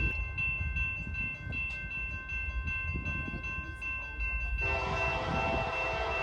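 Diesel freight locomotive air horn sounding a long held chord about four and a half seconds in, over the low rumble of a train. Before it there is a steady high-pitched ringing with a regular faint tick.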